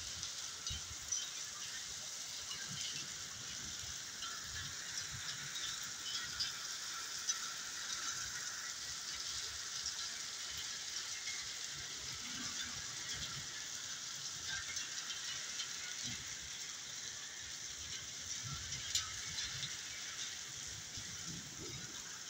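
Heavy rain falling steadily, an even hiss with scattered sharp drop ticks, a few of them louder.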